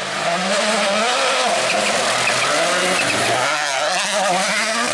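Rally car engine revving hard, its pitch swinging up and down repeatedly with gear changes and lifts off the throttle, over a steady rush of tyre and road noise.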